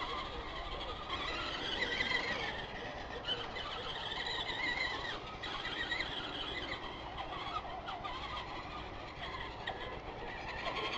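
Small toy RC monster trucks' electric motors whining, the pitch wavering up and down as they speed up and slow down.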